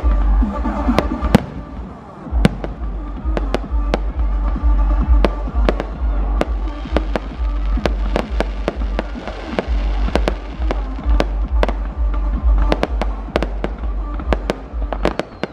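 Fireworks going off in quick succession, dozens of sharp bangs and cracks, over loud music with a heavy pulsing bass beat that drops out briefly about two seconds in.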